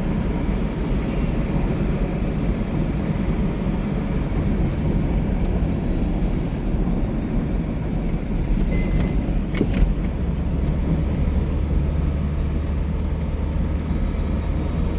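Steady rumble of a moving road vehicle, with a few brief clicks about two-thirds of the way through.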